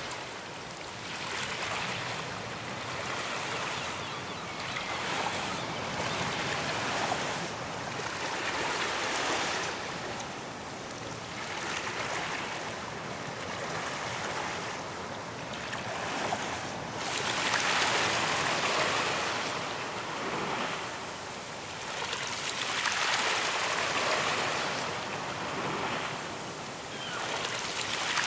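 Ocean waves breaking and washing up a beach in a steady surf, swelling and easing every two to three seconds, with the loudest wash about two-thirds of the way through.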